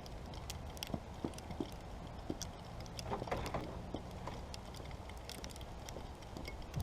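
Faint footsteps and light clicks over a low steady rumble.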